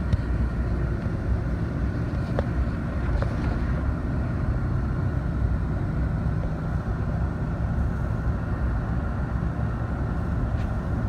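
Steady low rumble of a vehicle driving on the road, heard from inside the cabin.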